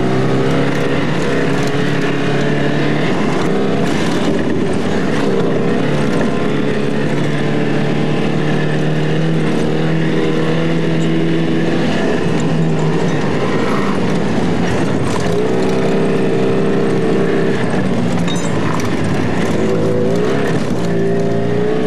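Alfa Romeo Alfasud's flat-four engine running hard as the car is driven, heard from inside the cabin over road and wind noise, its note rising and falling with the revs a few times.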